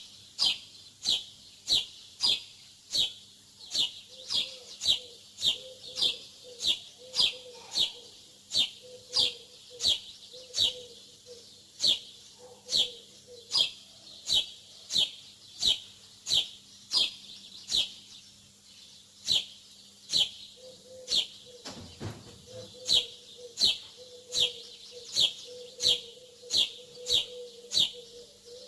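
A small bird chirping over and over, short high chirps that drop in pitch, a little under two a second, with a brief pause about two thirds of the way through. A faint steady hum lies underneath.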